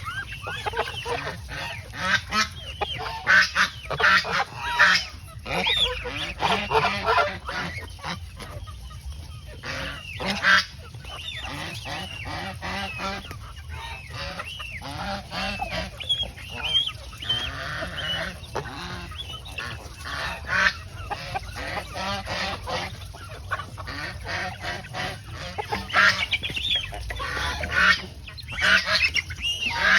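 Flock of domestic geese honking, many calls overlapping, with louder stretches of honking in the first few seconds and again near the end.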